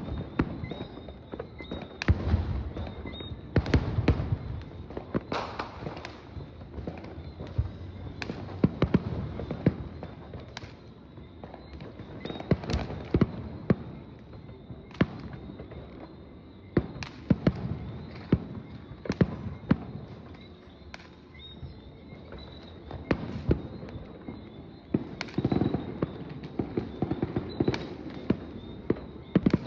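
Fireworks display: a string of sharp bangs and booming aerial shell bursts at irregular intervals, with crackling between them, several going off close together in places.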